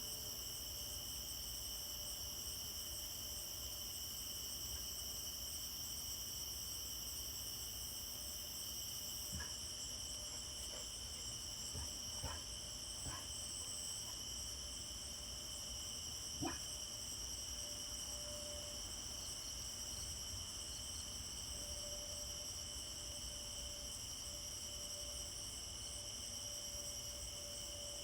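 Chorus of crickets or katydids, a steady, high-pitched, many-layered trill, with a few faint knocks a little past the middle.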